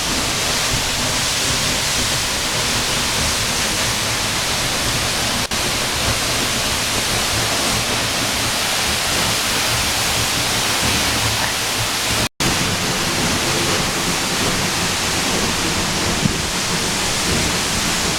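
Tall waterfall heard from close behind the falling water: a loud, steady rushing noise that cuts out briefly once, about twelve seconds in.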